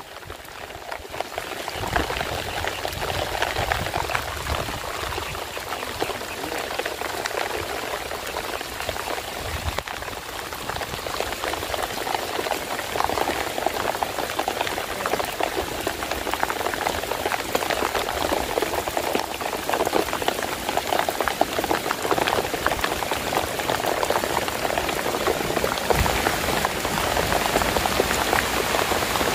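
Heavy rain falling steadily, a dense patter of drops, growing a little louder toward the end.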